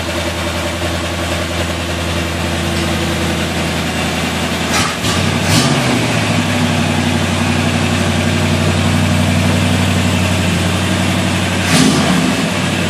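1938 Chevrolet sedan hot rod's engine idling steadily, just started after the car sat for months. A few brief knocks about five seconds in and again near the end, where the engine note shifts slightly.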